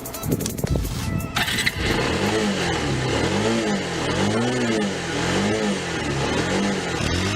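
Music for the first second or so, then a single-cylinder motorcycle engine revved again and again, its pitch rising and falling about once a second.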